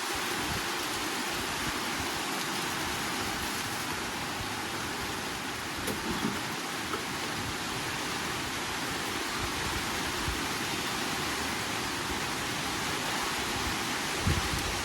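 Steady rain falling, an even hiss with a few soft low bumps.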